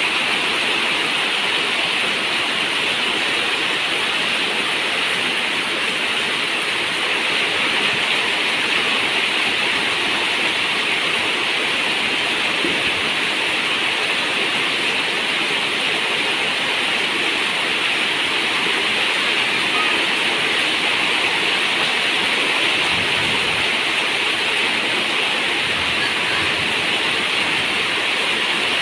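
Rain falling steadily on a zinc roof: an even, unbroken hiss with no single drops standing out.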